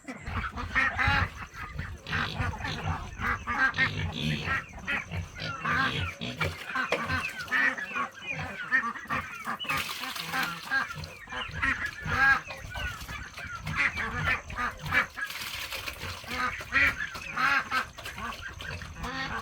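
A flock of domestic waterfowl calling, with many short calls overlapping one another.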